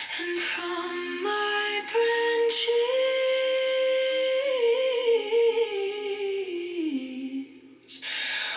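Wordless humming voice in a song's outro, holding long slow notes of a melody that rises a little and then steps down. It fades out about seven and a half seconds in, and the music picks up again just after.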